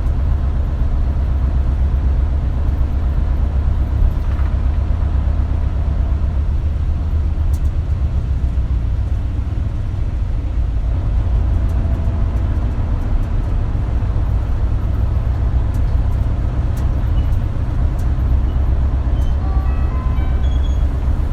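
Isuzu Erga route bus running, heard from inside the cabin: a steady low engine and road rumble, with a rising whine near the end.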